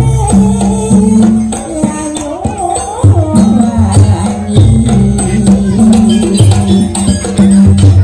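Live Javanese jaranan ensemble music: a wavering melody line over repeated sustained low notes, with jingling, rattling percussion strokes throughout.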